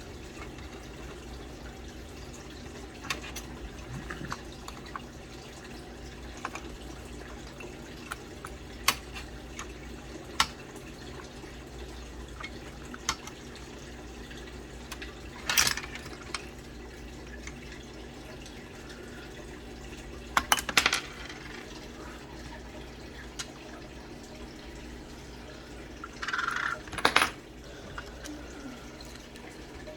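Sharp, scattered clicks and a few brief bursts of small hard clatter, the sounds of small parts being handled while working inside a Dell PowerEdge R620 server during a CMOS battery change, over a steady low hum.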